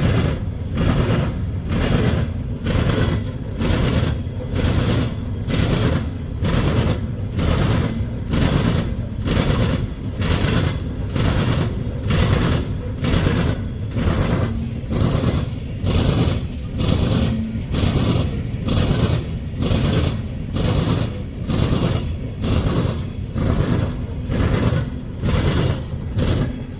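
Freight train rolling past, its wheels clacking over a railroad diamond crossing in a steady rhythm of about one and a half beats a second over a low rumble; the train is believed to be hauling loaded coal cars.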